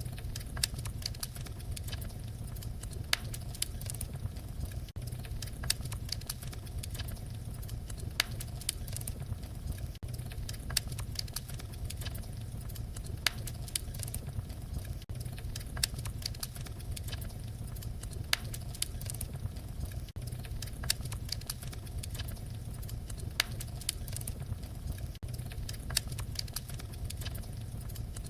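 Wood fire crackling: frequent irregular sharp snaps and pops over a steady low rumble of the flames.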